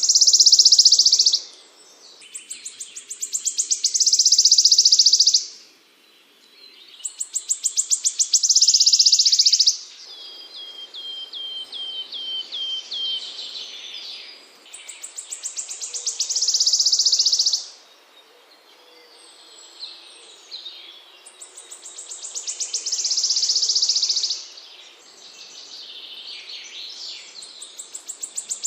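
Small songbird singing a repeated high phrase: a trill that speeds up into a dense buzzing rattle, given several times, with a run of short, softer falling chirps partway through.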